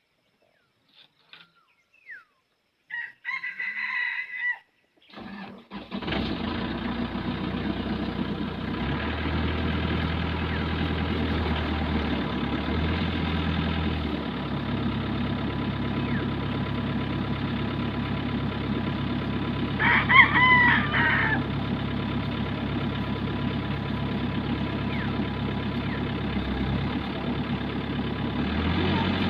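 A rooster crows, then a backhoe's diesel engine starts about five seconds in and runs steadily, its low note shifting a few times. The rooster crows again loudly about twenty seconds in, over the running engine.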